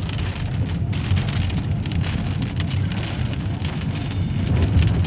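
Heavy rain falling steadily, a dense patter of drops with a low rumble underneath.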